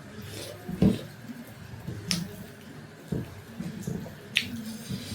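Close-miked eating sounds: a person chewing, with wet mouth clicks and smacks and a low thud a little under a second in.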